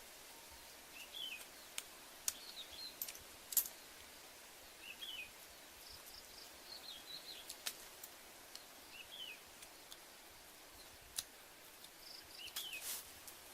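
A bird repeating a short chirped phrase every two to three seconds over a steady outdoor hiss, with scattered sharp clicks and ticks in between.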